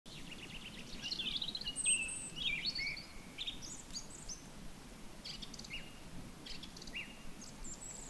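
Wild birds singing, a quick, varied twittering song with high chirping notes, busy for the first four seconds or so and then thinning to scattered short calls. Faint low background noise lies under it.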